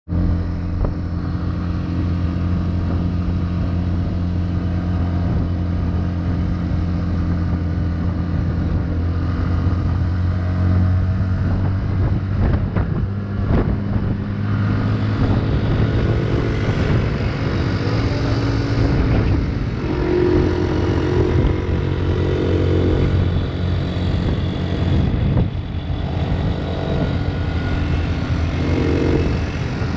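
Motorcycle engine running while riding, a steady note for the first half, then the engine note shifting up and down in the second half.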